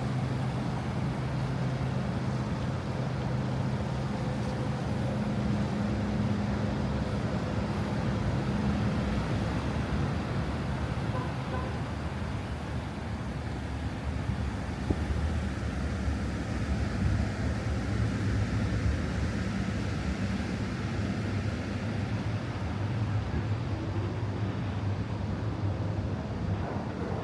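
City street traffic: a steady low rumble of vehicle engines and road noise.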